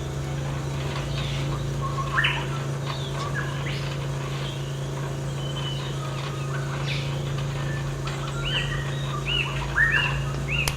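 Birds chirping and calling, ending in a quick run of repeated arching chirps, over a steady low hum.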